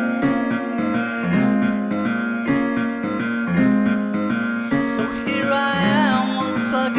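A live rock band playing a keyboard-led song: electric-piano chords repeat over a steady pulse, with synth and other instruments layered in.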